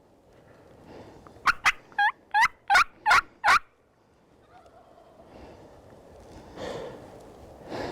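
Wild turkey yelping: a quick run of about seven loud, sharp yelps, each breaking down in pitch, lasting about two seconds.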